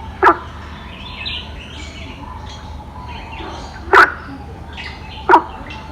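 Birds calling in an aviary: three short, loud, sharp calls, one near the start and two near the end, over a bed of fainter chirping.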